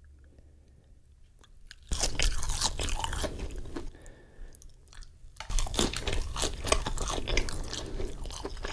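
Close-up crunching of a breaded fried mozzarella stick, starting suddenly about two seconds in with a bite into the crisp coating. Crackly chewing follows, easing off briefly midway and then starting again.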